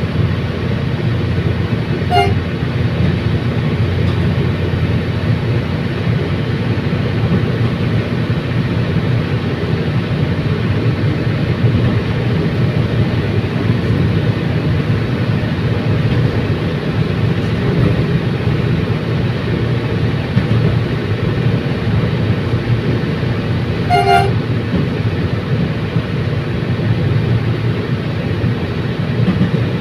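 Commuter train running steadily, a constant low rumble, with two short horn toots: one about two seconds in and one later on.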